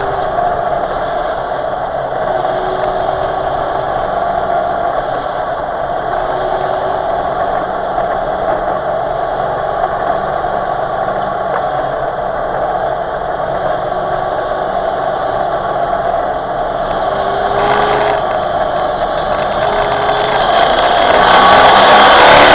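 Race truck's engine heard from inside the cab, running steadily at low speed with short rises and falls in pitch, then revving up and getting louder near the end as the truck accelerates.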